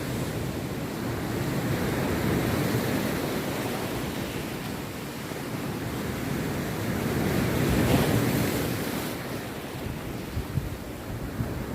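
Rough sea surf breaking on a beach: a continuous rush of waves that swells to its loudest about eight seconds in, then eases. Wind buffets the microphone.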